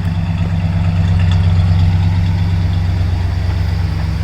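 Freshly rebuilt 429 V8 of a 1968 Ford Thunderbird idling steadily, still warming up about a minute after a cold start.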